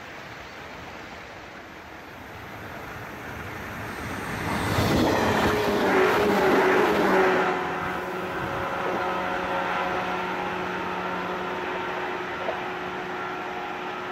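An electric local passenger train approaching and passing close by. It is loudest from about five to seven and a half seconds in, then leaves several steady tones sounding as it runs away.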